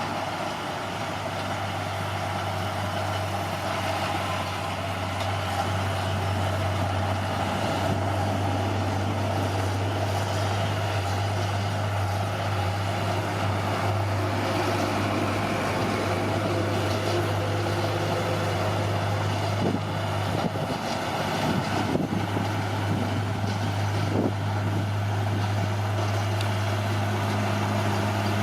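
Bulldozer's diesel engine running steadily under work, with a few knocks in the last third.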